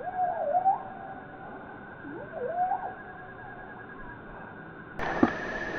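Bird calls: two bouts of wavering, gliding whistled notes, the first right at the start and the second about two seconds in, over a steady high hum of insects. Near the end the sound changes abruptly, with a click and a higher steady drone.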